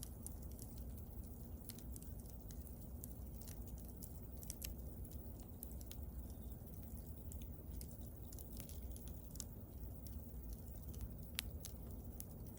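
Wood bonfire burning: irregular crackles and small pops over a low, steady rumble, with one sharper pop near the end.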